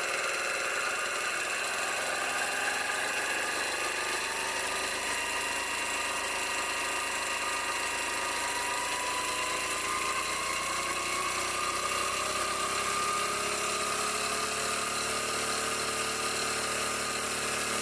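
Cornelius 3000 PSI high-pressure air compressor running, driven by an electric motor on a VFD, its speed brought up slowly so that its whine rises gradually in pitch. It runs smoothly.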